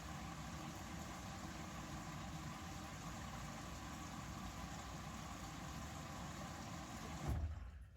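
Bosch Series 6 front-loading washing machine running its main wash, a steady hum from the motor and turning drum. Near the end there is a brief low thump, then the sound cuts off abruptly.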